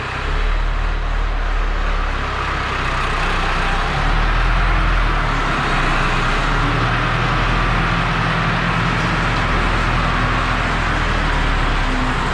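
Diesel engine running steadily, with a deep, even hum.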